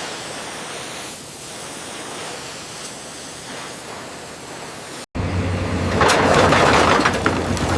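A steady, even hiss, then an abrupt break about five seconds in, after which a louder crackling noise with many sharp snaps starts over a steady low hum.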